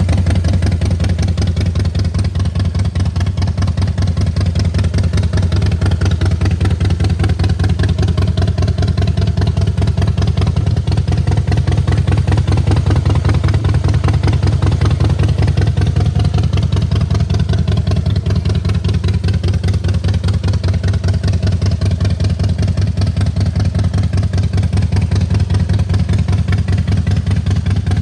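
Harley-Davidson Softail Rocker C's Twin Cam 96B air-cooled V-twin idling steadily through its exhaust, a loud, even pulsing beat with no revving.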